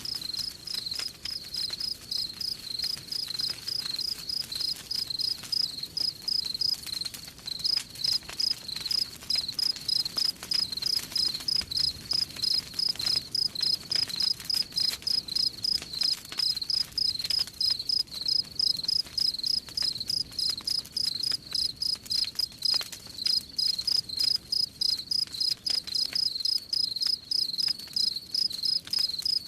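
Cricket chirping steadily at about three chirps a second, with a brief pause about seven seconds in, over faint campfire crackles.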